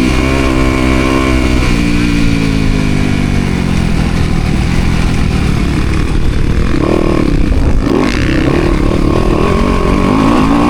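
Yamaha motocross bike's engine being ridden hard on a track: it runs high, its pitch falls away for a few seconds as the throttle comes off, then it picks up and rises again near the end. Wind rush on the helmet-mounted action camera sits under the engine.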